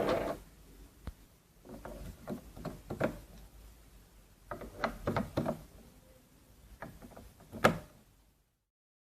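A series of irregular clicks and knocks, some in quick clusters, with one sharp loudest knock near the end.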